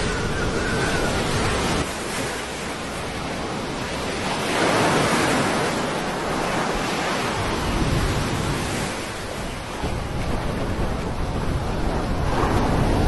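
Loud rushing noise of waves breaking with wind on the microphone, swelling about five seconds in and again near the end.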